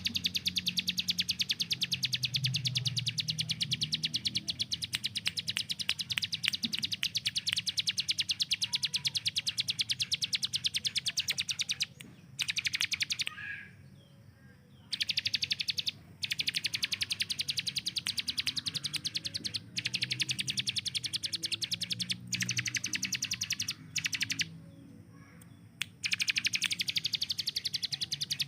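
Ciblek gunung (bar-winged prinia) singing its rapid-fire 'tembakan' song: long runs of very fast, high, repeated notes, broken by several short pauses.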